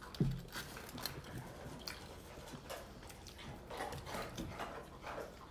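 A person biting into and chewing a burrito, with small wet clicks and soft rustles; a low thump sounds just after the start.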